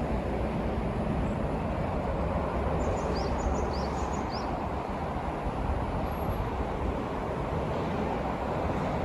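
Steady low outdoor rumble, like wind or distant traffic, with a few short high falling chirps in quick pairs around three to four seconds in.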